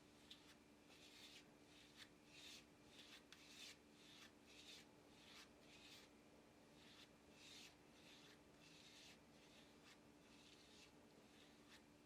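Faint, irregular short scratching strokes of a hand tool drawn across leather, about two a second, over a low steady hum.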